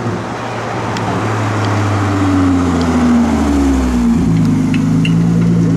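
Sports car engine running and growing louder, its pitch sinking slowly, with a sudden drop and change in its note about four seconds in.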